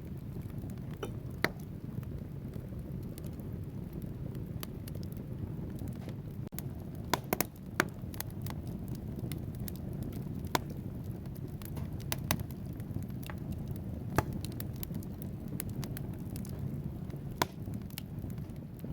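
Wood fire burning in a fireplace: a steady low rumble of flames with frequent sharp crackles and pops from the burning logs, a quick cluster of louder pops a little before halfway.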